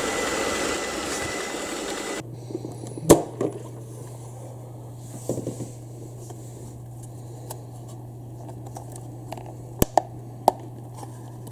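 ILIFE V4 robot vacuum running with a steady whirring noise that cuts off suddenly about two seconds in. A low steady hum follows, with a few sharp plastic clicks and knocks as the machine is handled to get at its dustbin, the loudest about three seconds in and two more near the end.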